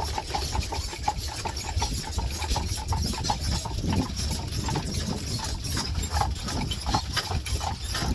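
Hooves of a buggy horse clip-clopping at a steady pace, several beats a second, over a low rumble.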